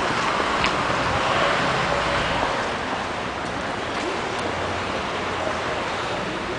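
Street traffic noise: a steady hiss and rumble of vehicles, the low rumble easing a little after about two and a half seconds.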